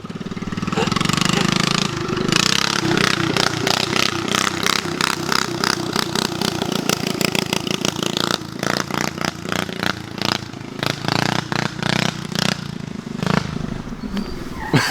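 Mini bike's Predator 212 single-cylinder engine running hard, with a steady engine note and many irregular clattering knocks.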